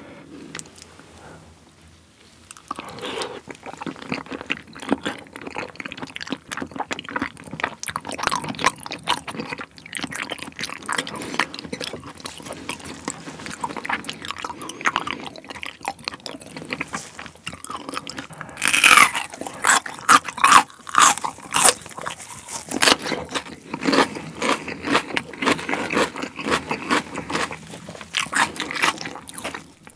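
Close-miked chewing of raw salmon: wet mouth sounds and smacks, with a louder stretch of chewing a little past the middle.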